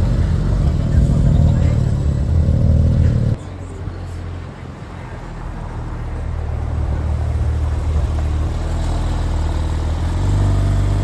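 Porsche engine running loud with a deep, steady note, cut off abruptly about three seconds in. It gives way to a quieter engine drone that slowly grows louder.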